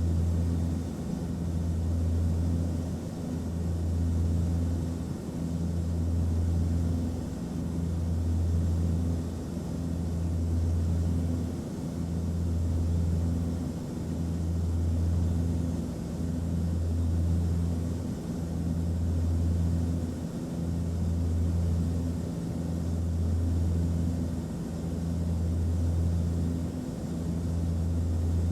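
Aircraft cabin noise in flight: a steady low engine drone under a soft hiss, the deep hum swelling and dipping about every two seconds.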